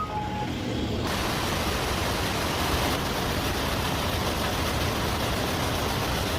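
A short musical tone fades out at the start. About a second in, a steady, dense clatter-and-hiss of factory machinery cuts in and runs on evenly.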